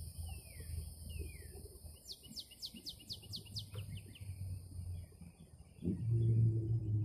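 Outdoor ambience: a steady high insect drone with bird calls over it, including single downward-slurred chirps and a quick run of about eight falling notes. A low rumble starts suddenly about six seconds in and is the loudest sound.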